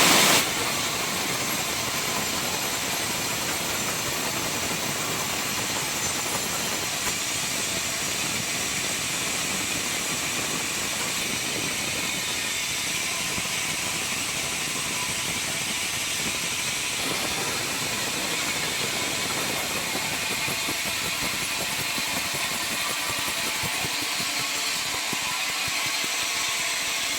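Sawmill circular-saw machinery running steadily: a constant, noisy, hissing whir with much of its sound high in pitch, with a brief louder burst at the very start.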